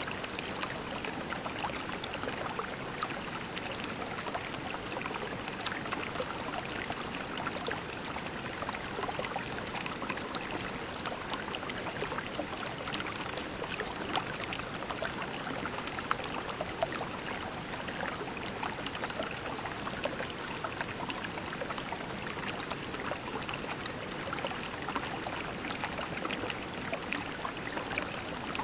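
Shallow creek water flowing steadily over pebbles, a continuous babbling with many small splashes and trickles.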